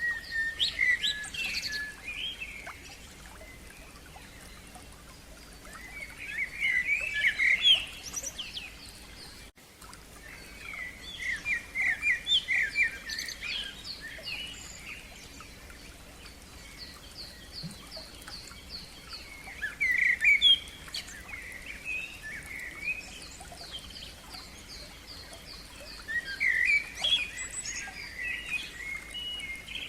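Songbirds singing: five loud, varied song phrases a few seconds apart, with a fainter, higher bird repeating one thin note quickly in between.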